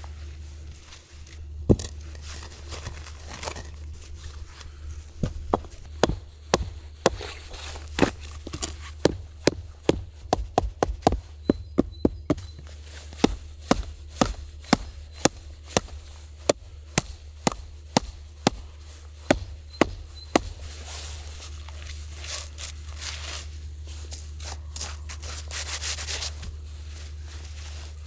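A rubber mallet knocking basalt stones into place in a fire pit: a run of sharp knocks, two or three a second, for about fifteen seconds, with some scraping and rustling around it.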